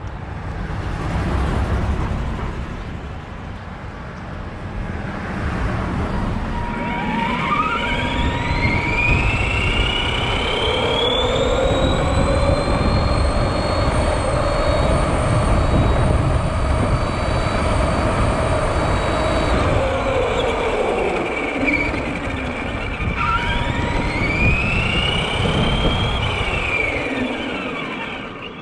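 Electric motor of a Granite 4x4 radio-controlled monster truck whining up in pitch and back down twice, a long run through the middle and a shorter one near the end, over a steady low rumble.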